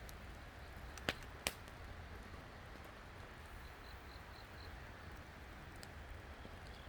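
Wood campfire crackling over a low, steady hiss, with two sharp pops about a second in and a fainter one near the end.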